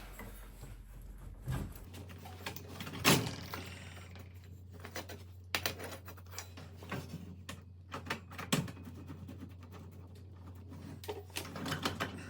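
Scattered metal clinks and knocks of hand work on a garage door's torsion-spring axle and cable pulley, with one louder knock about three seconds in.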